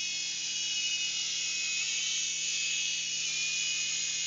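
Small RC toy helicopter in flight, its tiny electric motors and rotors making a steady high-pitched whir whose pitch drifts slightly as the throttle changes.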